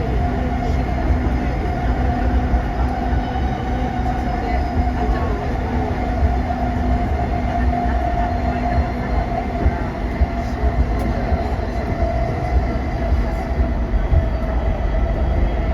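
JR East E233 series 5000 number electric train running: a steady rumble of wheels on rail with an even electric motor hum, and a few faint clicks.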